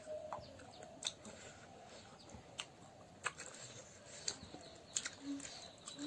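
Faint, irregular mouth clicks and smacks of someone chewing duck meat, about one a second.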